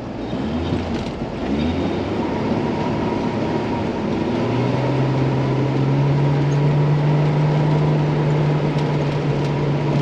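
Truck engine revving up under load in the first couple of seconds, then held at steady high revs from about four seconds in, as the truck builds speed to climb a snowy slope.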